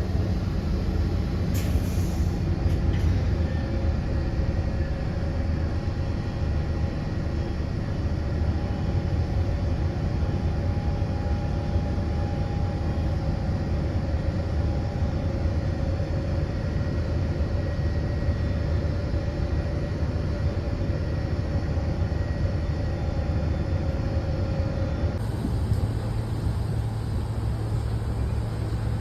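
Steady low rumble of a moving vehicle, with a faint steady hum in it; the sound shifts abruptly about 25 seconds in.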